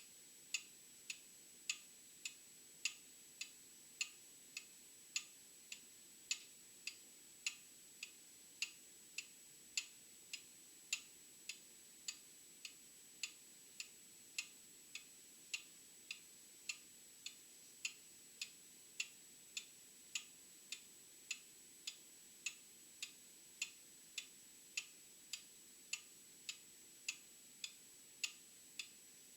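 Old mechanical clock ticking steadily, a little under two ticks a second, with the beats alternating louder and softer in a tick-tock pattern.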